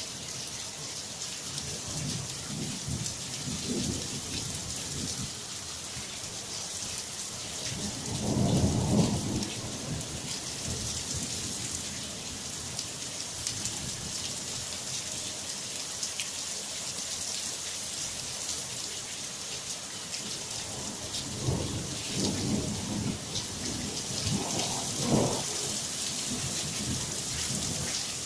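Steady heavy rain with thunder rumbling several times, the loudest roll about eight to ten seconds in and more rolls near the end.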